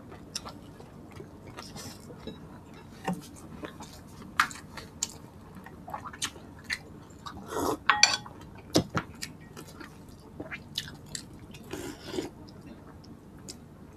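Close-miked mukbang eating sounds: chewing and lip smacking of people eating rice, boiled pork and dried fish by hand, with scattered small clicks of hands and dishes, loudest about eight seconds in.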